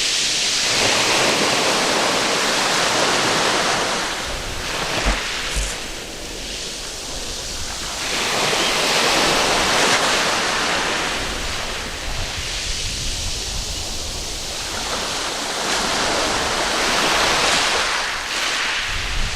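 Waves breaking and washing up a sandy beach. The rush of surf swells and falls back about every eight seconds.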